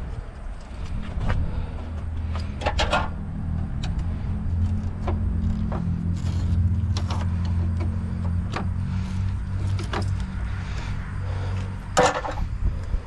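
A steady low motor hum, with scattered metallic clicks and knocks of parts being handled and a loud clatter about twelve seconds in.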